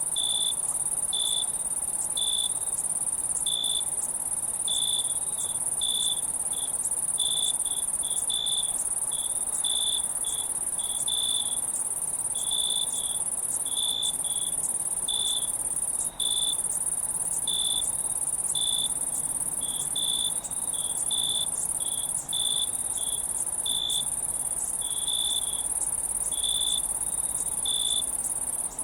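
Crickets and other insects singing: a steady, very high-pitched chorus, with a nearer cricket chirping in short pulses, roughly two a second at an uneven pace.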